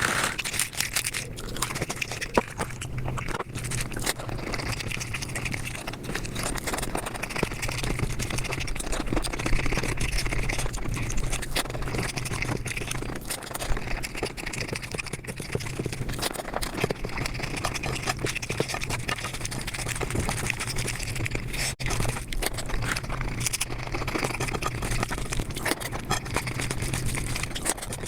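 Mukbang eating sounds sped up five times: a dense, unbroken crackle of chewing, mouth smacking and crunching clicks, with a steady low hum underneath.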